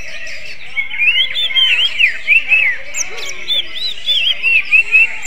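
A cucak ijo (green leafbird) singing: from about a second in, a fast run of short, arching whistled notes in the style of a kacer (oriental magpie-robin). Under it is a steady high-pitched background hiss.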